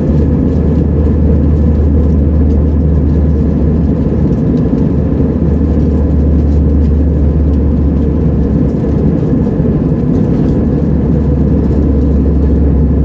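Cabin noise of an Airbus A320-232 in flight: a steady drone of its IAE V2500 turbofan engines and the airflow over the fuselage, strongest in the low range, with a faint steady whine above it.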